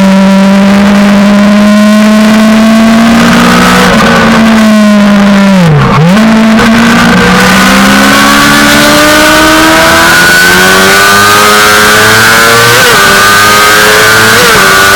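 Suzuki GSX-R600 inline-four sportbike engine at high revs, its pitch falling sharply through downshifts about four to six seconds in as the bike brakes for a corner, then rising steadily as it accelerates out, with two brief dips near the end at upshifts.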